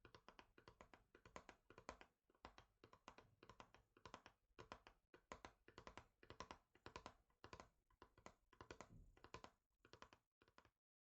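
Quiet rapid fingertip tapping on a surface, in quick flurries of many taps a second with brief gaps, stopping for a moment near the end.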